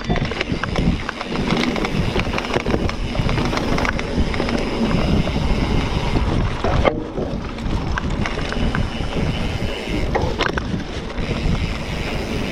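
Mountain bike ridden fast down a dirt trail: tyres rumbling over the ground with constant rattling clicks and knocks from the bike, and wind buffeting the microphone.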